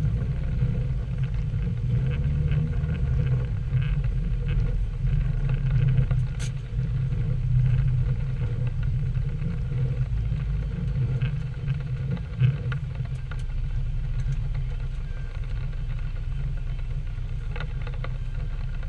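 Nissan 240SX (S13) engine running with a steady low rumble, with a few faint ticks scattered through it.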